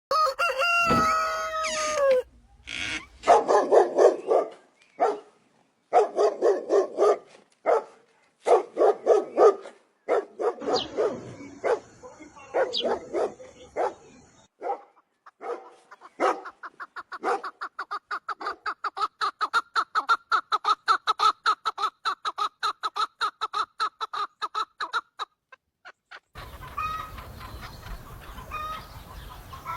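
Farmyard animals calling: a dog barking in bouts and chickens clucking. A long fast run of regular calls near the middle, and softer, spaced clucks over background noise near the end.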